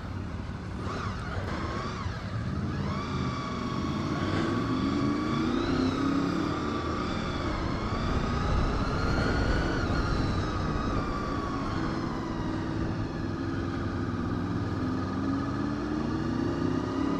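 Motorcycle engine pulling away and accelerating, its pitch rising and dropping back several times through the gear changes, over a steady low wind rumble.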